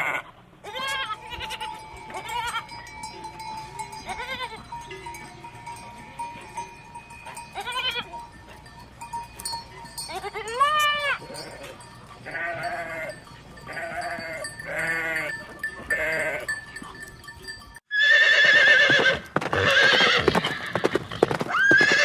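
Farm animals calling one after another in short pitched bleats and cries, with a bell ringing behind them. In the last few seconds a horse whinnies, much louder.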